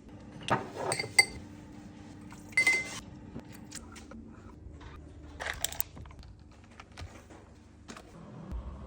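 Clinks and knocks of small hard objects being handled, two of them ringing briefly, with lighter taps and clicks between.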